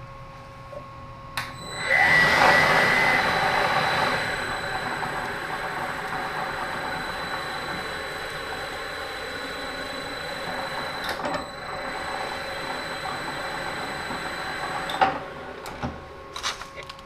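A small machine tool's electric motor is switched on with a click, spins up and runs steadily with a high whine while machining a model-engine crankcase, then is switched off about fifteen seconds in, followed by a few light clicks and knocks.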